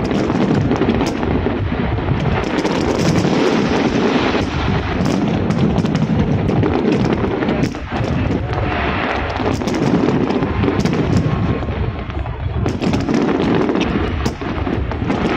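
Large fireworks display: a continuous rumble of many overlapping shell bursts, with sharp cracks throughout.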